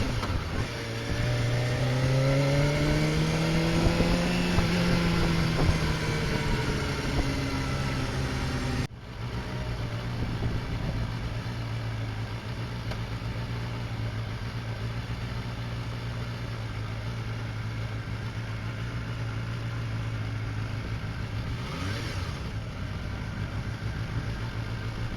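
Honda CBR250RR MC22's 250 cc inline-four engine rising in pitch and then easing off over the first several seconds. After an abrupt cut about nine seconds in, it runs at a steady engine speed.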